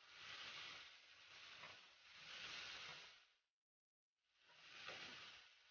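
Cucumber, wood ear mushrooms and bean curd sticks sizzling faintly in a nonstick wok as they are stir-fried with a wooden spatula. The hiss swells and fades, then cuts out completely for about half a second past the middle.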